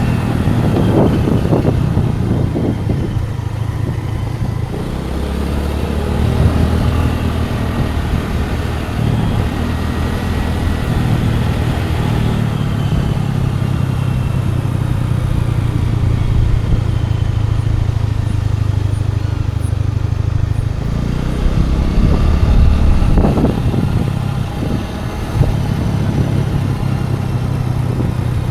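Motor scooter engine running while riding, its low hum changing pitch several times as the throttle and speed change.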